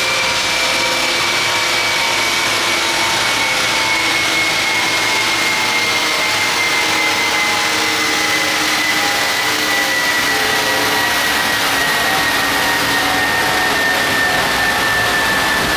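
Supercharged 6.2-litre LS9 V8 running in a Corvette Z06 on a chassis dyno, a steady loud machine noise with a high whine that slowly falls in pitch.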